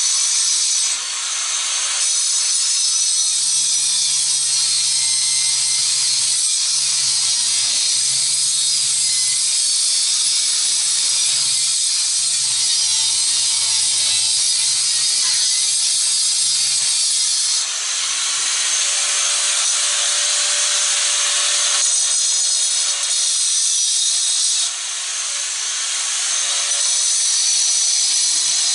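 Handheld power tool grinding into metal on a stubborn Torx screw of a microwave magnetron. The noise is loud and steady, with short dips about a second in and again near 18 and 25 seconds.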